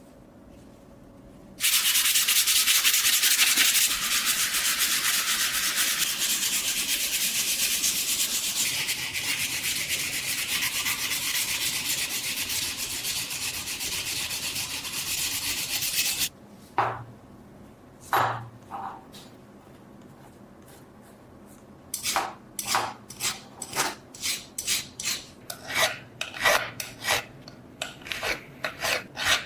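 Abrasive rubbing on the steel of a rusty old knife: about fourteen seconds of fast, continuous scrubbing, then a couple of single strokes, then a run of separate strokes, about two a second, near the end.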